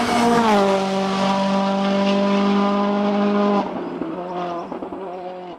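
Race car engine held at high revs, a steady loud note. It dips slightly about half a second in, falls away about three and a half seconds in, then wavers and fades out.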